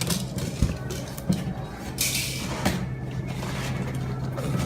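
Knocks and clunks of a heavy metal cut-off saw being handled and set down on a scale, with a short rustle about two seconds in, over a steady low hum.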